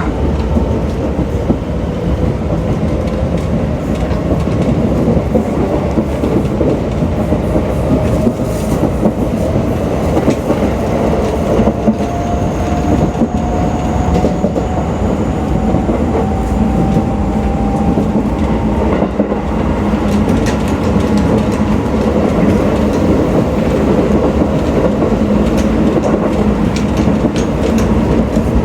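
Shin-Keisei 8800 series electric train running: the whine of its Mitsubishi GTO-VVVF inverter and traction motors rises slowly in pitch as the train gathers speed, over a steady rumble of wheels on rail. A second, higher whine climbs in the last third.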